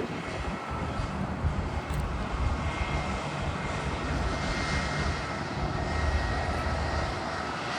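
Jet airliner engines running: a steady low rumble with a faint high whine above it.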